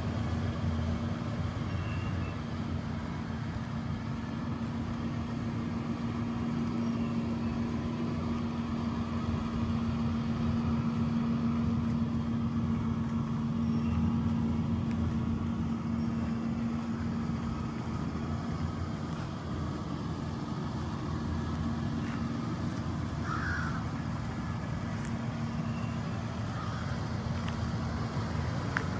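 2004 Toyota Tundra pickup's engine idling with a steady, even hum.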